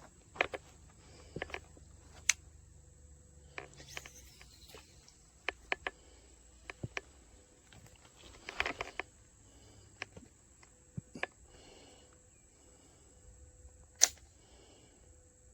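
Handling noise: scattered sharp clicks and knocks, a dozen or so, with a short cluster about halfway through and the loudest single click near the end, over a quiet background.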